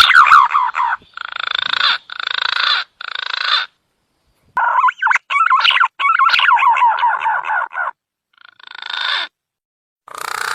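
Green pigeon (punai) calls from a bird-lure recording: a string of warbling whistled phrases with quivering pitch, each breaking off abruptly into silence.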